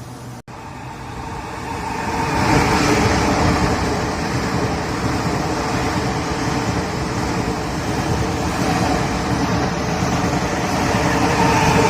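A Taiwan Railway train passing close by. Its rumble builds over about two seconds and stays loud, with a faint steady whine running through it.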